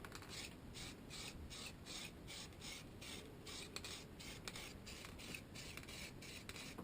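Static grass applicator full of grass fibres being shaken over the scenery: a faint, rhythmic rasping in quick strokes, about three a second.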